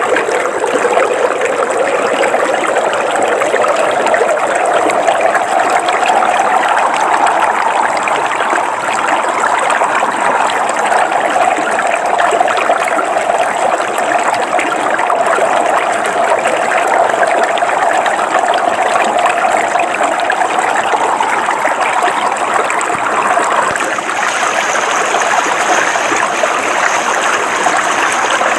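Shallow river water flowing steadily over rocks, a continuous rushing and burbling.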